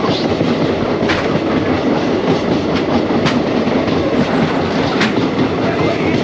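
Passenger train running at speed, heard from an open coach door: a loud, steady rumble and rattle of the coach and wheels on the rails, with a few sharp wheel clacks about one to two seconds apart.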